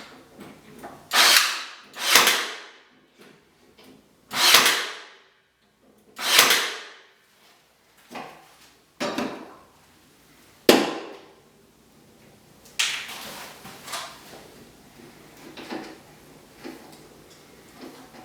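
Pallet-wood slat being forced into place with a clamp: about six loud separate knocks and scrapes of wood and clamp over the first ten seconds or so, then quieter handling sounds.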